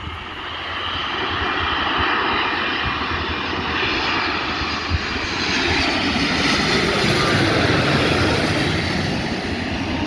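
Jet airliner's engines passing close by: a steady rushing noise that builds over the first couple of seconds and stays loud, with wind buffeting the microphone.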